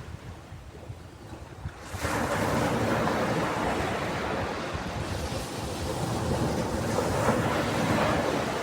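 Ocean surf: a quieter wash, then a wave breaking about two seconds in, its surge and foam running on loudly.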